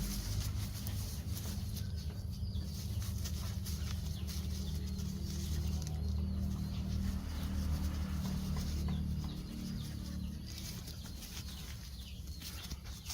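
Chickens clucking over a low steady drone that fades out after about ten seconds.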